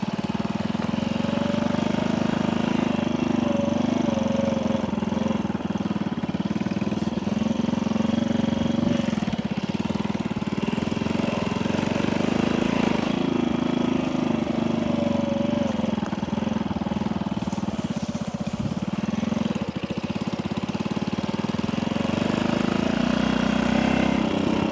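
1964 Honda C200's small single-cylinder four-stroke engine running steadily at idle, freshly got going on a new spark plug after a carburettor cleaning.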